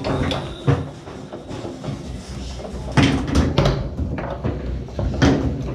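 Foosball play on a Tornado table: the ball being struck by the plastic men and knocking off the table walls, with the rods clacking, in a string of sharp knocks, the loudest about three seconds in and again near the end.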